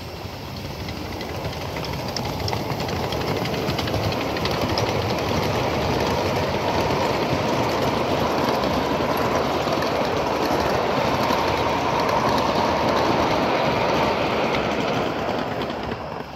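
Steam train rolling past on the rails. The noise builds over the first few seconds as it approaches, holds loud and steady while the train goes by, and drops off sharply near the end.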